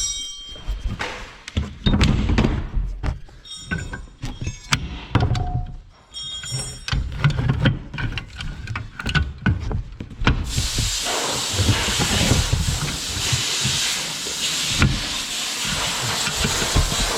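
Steel manure-spreader apron chain and tools clanking and knocking as the shortened chain is pried and pulled together, some strikes ringing briefly. About ten seconds in, a steady loud hiss starts and continues.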